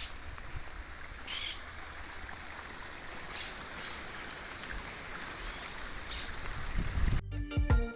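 Creek water running with a steady rush, with a few short bird calls scattered through it. Music cuts in near the end.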